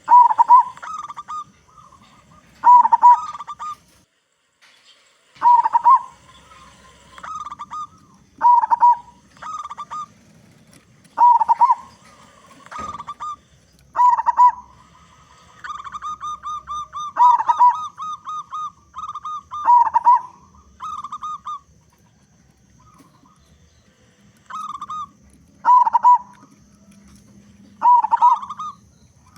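Zebra dove (perkutut) singing its bubbling, cooing song. A short phrase of notes repeats about every three seconds, with a quicker run of rapid notes about midway.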